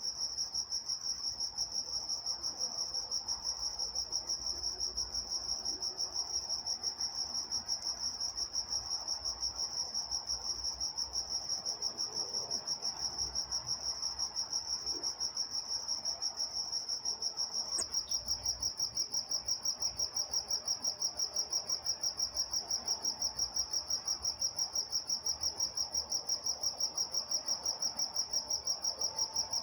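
Crickets chirping in a steady, evenly pulsing chorus on one high pitch, the pulses growing more distinct about two-thirds of the way in.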